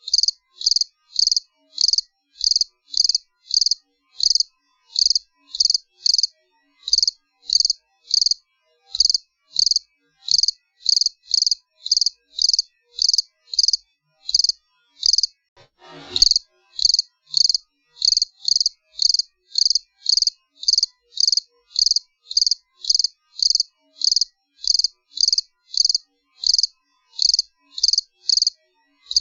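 A cricket chirping steadily, about two short high chirps a second. About halfway through the chirping pauses briefly and a short low thud sounds before it resumes.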